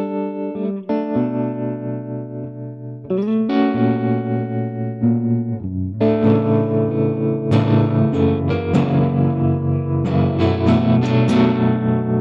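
Band playing an instrumental passage led by electric guitar through effects and distortion over sustained low notes. It gets louder about three seconds in and again about six seconds in, with dense strummed chords toward the end.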